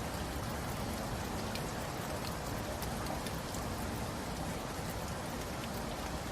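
Steady rain with many distinct drops ticking on a surface.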